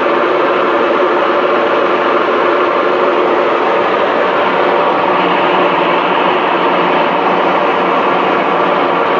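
Airliner engines running at takeoff power: a loud, steady rushing noise with a few steady hum tones underneath.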